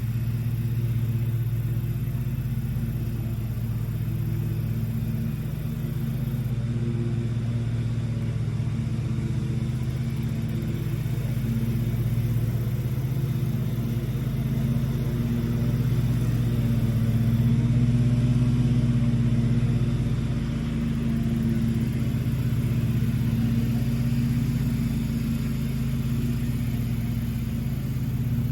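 A steady low engine or motor hum, running evenly throughout.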